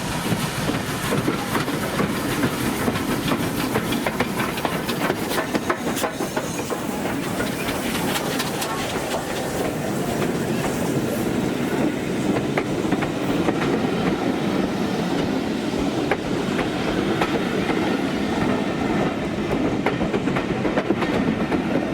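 A train running on jointed track: a steady rumble with repeated clicks and clatter of wheels over the rail joints.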